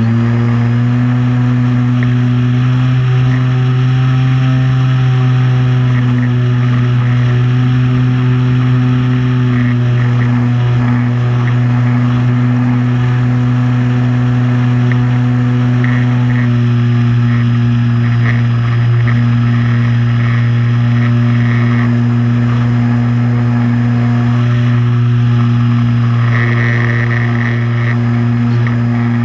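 Multirotor drone's motors and propellers humming steadily, a loud low drone with slight shifts in pitch.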